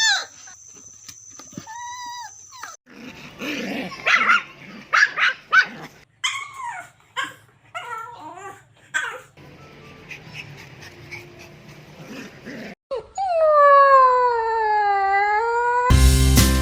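A string of animal calls: short whines and yelps in quick succession, then one long call that falls and rises again. Guitar music starts near the end.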